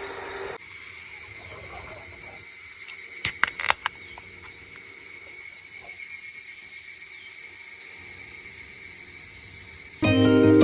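Insects chirping steadily in a constant high chorus, with three or four sharp clicks a little past three seconds in. Guitar music starts right at the end.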